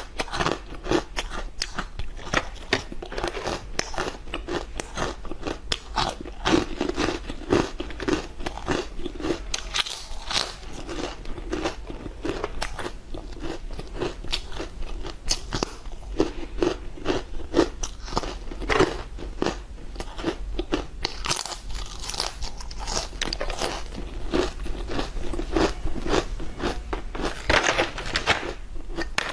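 Close-up crunching and chewing of dried fruit and vegetable crisps: a dense run of sharp, crisp crackles as each brittle piece is bitten and chewed.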